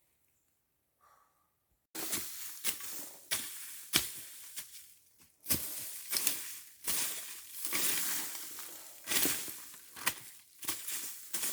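Dry material crunching and crackling close to the microphone, starting abruptly about two seconds in, a run of rustling with many sharp snaps.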